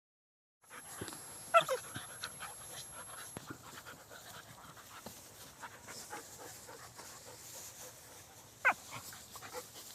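Dogs at play, panting and scuffling, with two short sharp sounds falling in pitch, the louder about a second and a half in and another near the end.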